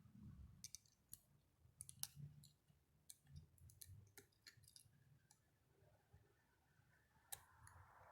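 Near silence with faint, irregular clicks and light taps of small metal distributor parts being handled.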